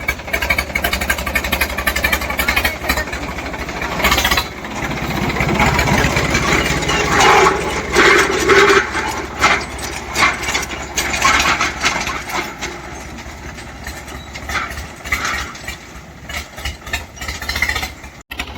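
A tractor's diesel engine running steadily, growing louder from about six to nine seconds in.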